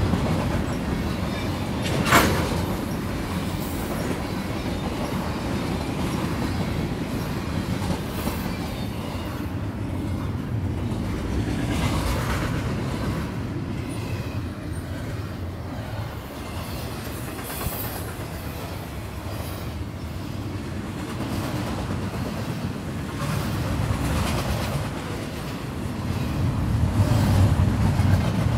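Canadian National freight train of tank cars and double-stack container well cars rolling past close by: a steady rumble of steel wheels on the rails with scattered clacks over the rail joints. There is a sharp crack about two seconds in, and the rumble grows louder near the end.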